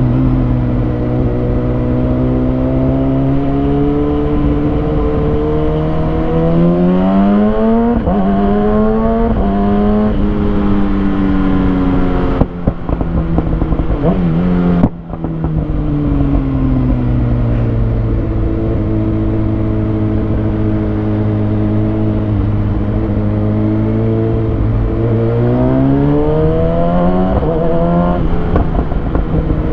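2020 Kawasaki Ninja ZX6R's inline-four engine running through a Lextek SP7C carbon exhaust with decat headers. It holds steady revs, then twice climbs in pitch and drops back as it is revved up and shifted, with two brief cuts in the sound midway.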